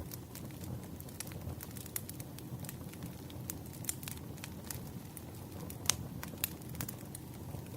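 Wood fire crackling: irregular sharp pops and snaps over a low steady rumble, with one louder pop about six seconds in.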